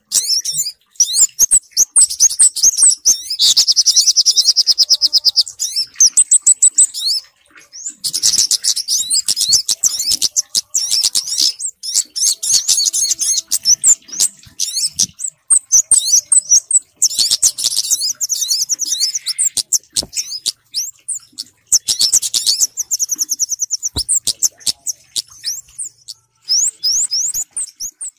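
Bird-lure recording of small birds, kemade and sogok ontong, calling: loud, rapid high-pitched chirps and trills, repeating with only brief pauses.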